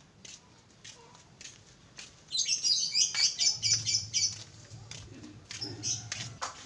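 Small birds chirping, a quick, busy burst of high twittering lasting about two seconds that starts about two seconds in, with a shorter bit of chirping near the end. Faint clicks and a low hum run underneath.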